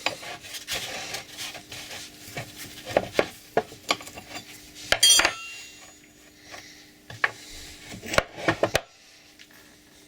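Steel parts of an old bolt cutter and hand tools clinking, knocking and scraping as it is taken apart. About five seconds in comes one loud, ringing metallic clink, and a quick run of knocks just before the clatter stops near the end.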